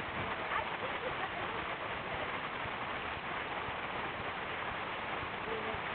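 Flooded waterfall on the Kahurangi River: a steady, even rush of falling water.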